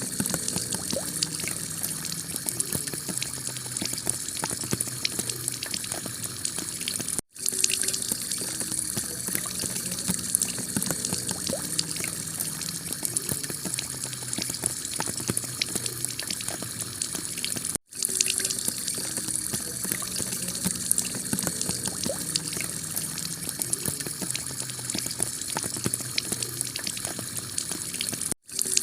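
Heavy rain falling on a clay-tile roof, a dense steady patter of drops. The sound cuts out for an instant three times, about every ten seconds.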